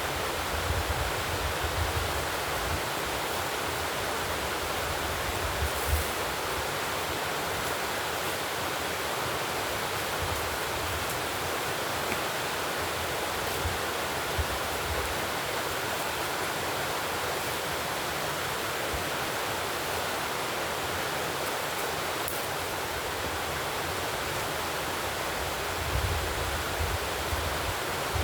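Steady rushing noise with no distinct events, with a few soft low thumps near the start and again near the end.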